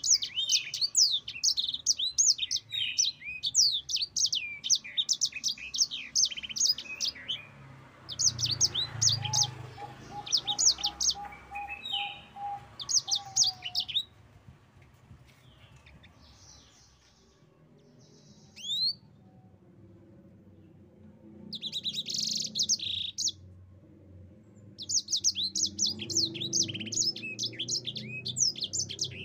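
Yellow-fronted canary (sanger/mozambik) singing long, fast, rolling twittering phrases. Several bursts come in the first half, then a pause of several seconds, then the song resumes near the end.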